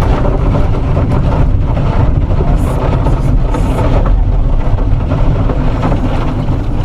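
Loud, steady low rumble of a car driving, engine and road noise without any distinct crash impact.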